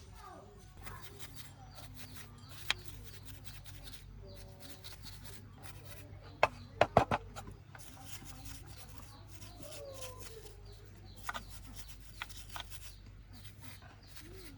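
Scattered clicks and knocks, with a quick run of loud sharp taps about halfway through, over a steady low hum.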